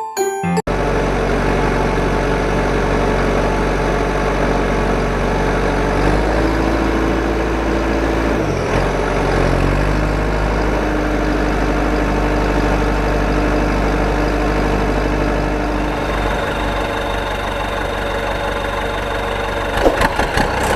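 An engine idling steadily with a low, even hum; its pitch shifts about six seconds in, dips briefly around nine seconds, then settles again.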